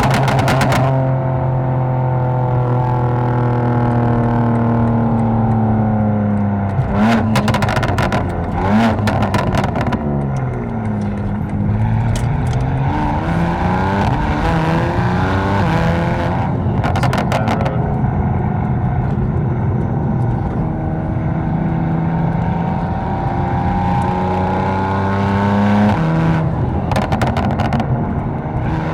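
Tuned 750-horsepower BMW M4's twin-turbo inline-six engine and exhaust while driving: a steady cruise, then revs falling off and climbing again, with a few short sharp cracks along the way. Near the end the pitch drops suddenly, as at an upshift.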